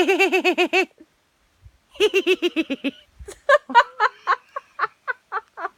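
Woman's voice imitating a herring gull's laughing call: two short, rapid runs of pitched 'ha-ha-ha' pulses with a pause between them, followed by irregular giggling.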